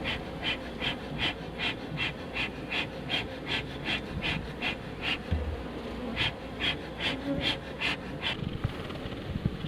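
A beekeeper's bellows smoker pumped in a steady run of short hissing puffs, about two or three a second, with a brief pause about halfway and stopping near the end; honeybees buzz steadily underneath. The smoke is being puffed into a refrigerator's ventilation hole to drive the hiding queen out.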